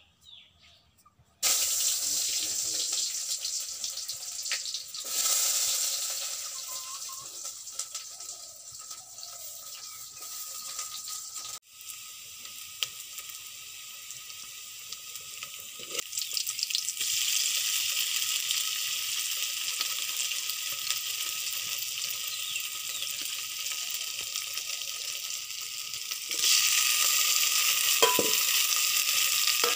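Chopped onion and garlic frying in hot oil in a steel pot over a wood fire: a loud, steady sizzle that starts suddenly about a second and a half in. It grows louder near the end as chopped tomatoes go in and are stirred.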